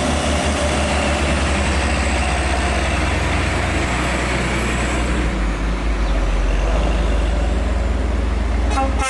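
Heavy diesel truck engine running under load as it passes, a deep pulsing note over dense road noise that shifts about halfway through. A truck air horn starts sounding right at the end.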